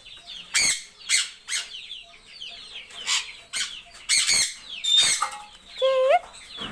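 Parrots squawking: repeated short, harsh screeches from several birds, with a clear whistled call rising in pitch near the end.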